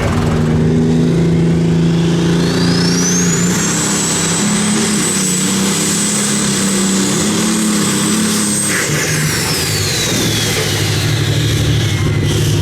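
Competition pulling vehicle's engine running hard at high revs. A high whine rises over the first few seconds, holds, then falls away again near the end.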